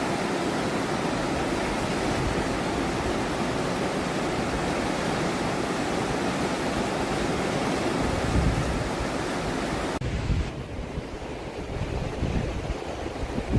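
Fast-flowing river water rushing steadily. About ten seconds in the sound abruptly turns quieter and duller, with some low, uneven thumps.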